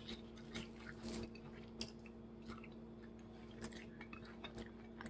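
A person chewing charred chicken close to the microphone, with irregular soft crunches and mouth noises over a faint steady hum.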